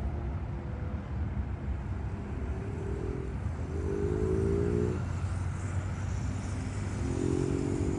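Airbus A321neo jet engines at takeoff power as the airliner climbs away: a steady low rumble. A pitched hum swells over it twice.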